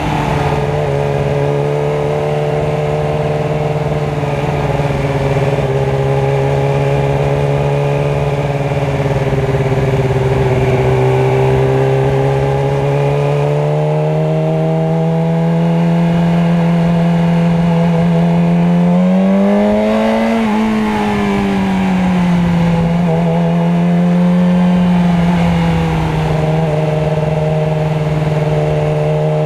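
Motorcycle engine running steadily in traffic, its pitch drifting slowly up and down with speed; it climbs to a peak about two-thirds of the way through, then falls back.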